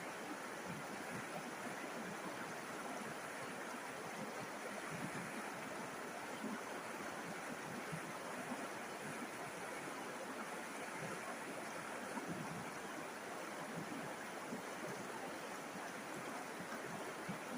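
River water flowing over stones: a steady rushing and babbling with small splashes.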